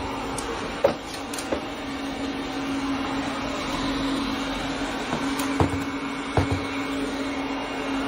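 A steady mechanical hum with a noisy rush and one steady tone, broken by a few short clicks and knocks: two about a second in and two more a little past two-thirds through.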